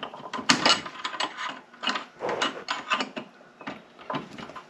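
Metal parts of an NP205 transfer case being worked apart by hand: irregular clinks, knocks and rattles in several short clusters.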